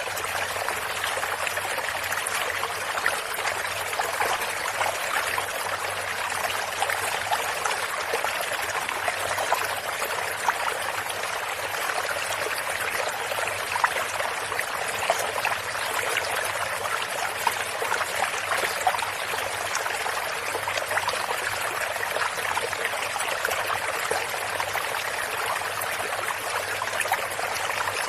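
Shallow stream running steadily over stones, a continuous babble of trickling and splashing water.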